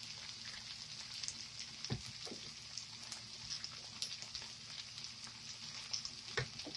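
Shredded hash-brown potatoes frying in a little oil in a skillet: a faint, steady sizzle with scattered crackles. There are a few light clicks about two seconds in and again near the end.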